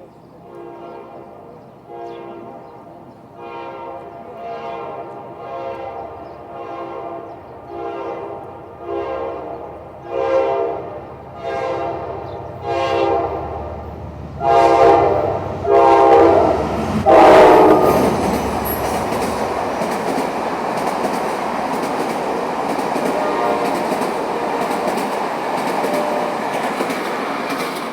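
A Wabtec diesel locomotive's horn sounding in repeated short blasts, about one a second, growing louder as the express train approaches at speed. About 17 seconds in, the locomotive and coaches rush past with a loud steady rumble and clatter of wheels on rail.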